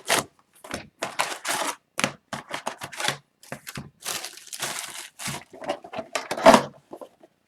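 Plastic wrapping of a sealed retail box of Upper Deck hockey cards being torn and crinkled open: a rapid, irregular run of short crackling rips.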